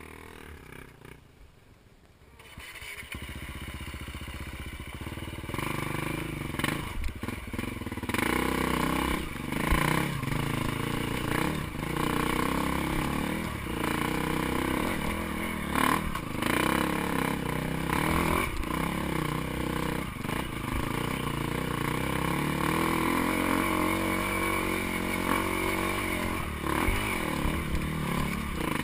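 Dirt bike engine running and being revved up and down over and over as it is ridden; it comes in a few seconds in and grows louder.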